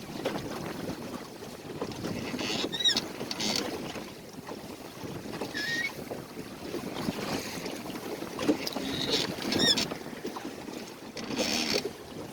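Water sloshing and splashing against the hull of a small sailboat under way, in uneven surges, with wind buffeting the microphone. A few short high chirps or squeaks come through about three, six and ten seconds in.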